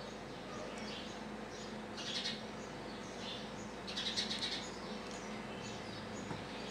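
Small bird chirping over and over, about one and a half chirps a second, with louder bursts of quick chirps about two and four seconds in. A steady low hum runs underneath.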